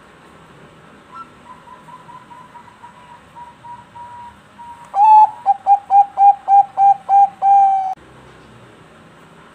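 Zebra dove (Bangkok-type perkutut) singing. A long run of soft, quick cooing notes is followed about halfway through by a loud burst of about eight rapid coos, ending on a longer held coo.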